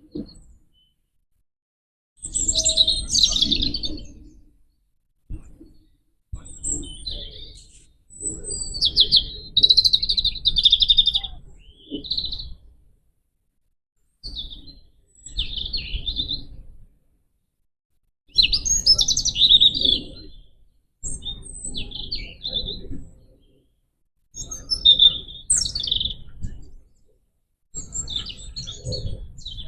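A small woodland songbird singing high-pitched phrases of a few seconds each, about nine in all. Between phrases the sound drops to dead silence, as in a gated or edited recording, and a low background rumble comes and goes with each phrase.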